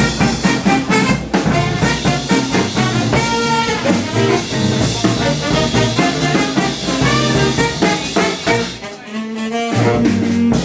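Big-band swing music with brass and saxophones playing an instrumental break, with no singing. The music thins briefly near the end, then the full band comes back in.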